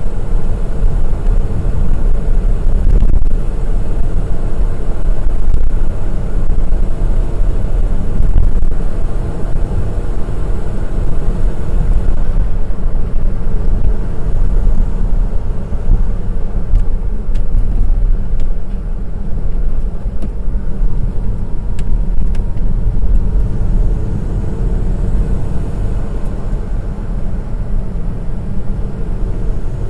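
Honda S660's small turbocharged three-cylinder engine and road noise as the car is driven up a mountain pass road, a steady, heavy low rumble that eases slightly near the end.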